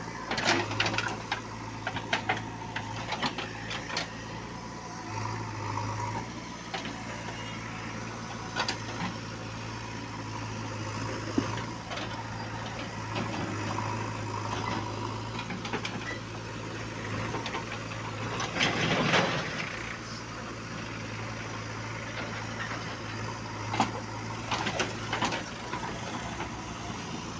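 A diesel engine running steadily, with scattered clicks and knocks over it.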